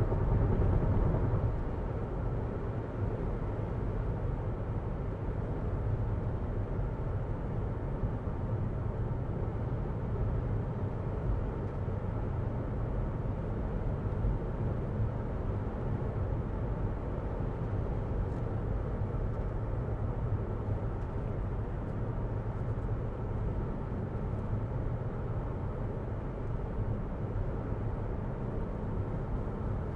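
Road and wind noise inside the cabin of a 2022 Jeep Renegade Latitude driving at road speed: a steady low tyre rumble with a hiss of wind over it, a little louder in the first second or so.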